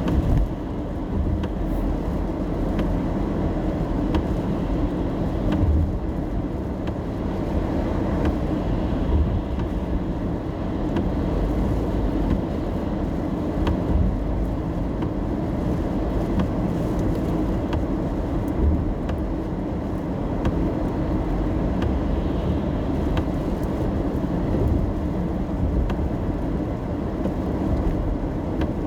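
Steady in-cabin road noise of a car being driven in the rain: a low rumble from the engine and tyres on the wet road, with faint scattered taps.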